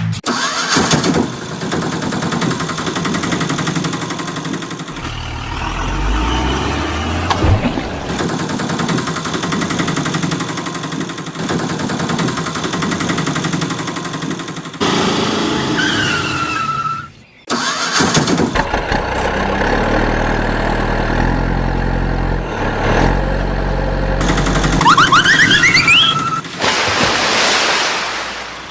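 Tractor engine running and starting, in several edited segments with a short break about seventeen seconds in.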